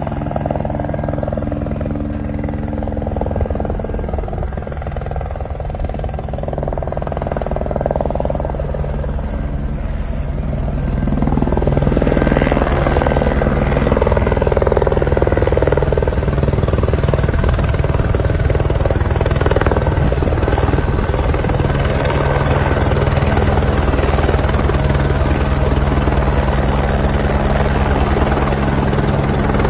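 Helicopter rotor and engine running close by as it comes in to land, the rotor beating rapidly. The sound grows louder about eleven seconds in and then holds steady.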